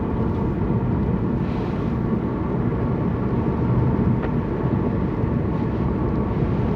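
Steady road and engine noise inside a moving car's cabin, with a single faint tick about four seconds in.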